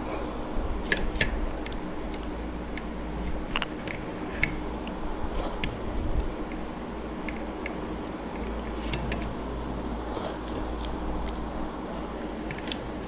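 Eating by hand: chewing and wet mouth clicks, with fingers mixing and squishing rice and dal on a plastic plate. Many short irregular clicks over a steady low hum.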